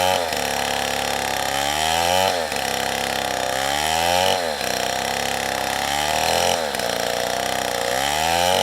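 Two-stroke chainsaw running at high revs while cutting wood. The engine note climbs and then drops sharply about every two seconds, four times over.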